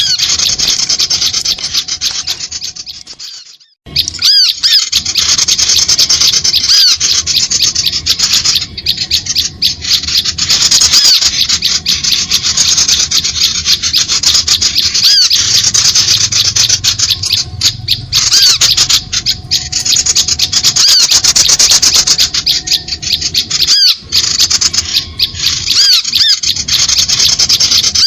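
Bird-lure recording of small birds' rapid, harsh chattering calls, dense and continuous. It fades out about three seconds in and starts again a moment later.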